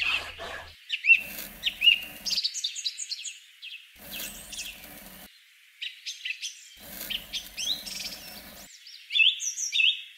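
Birds chirping in quick repeated rising notes, in four bursts of a second or two each that start and stop abruptly.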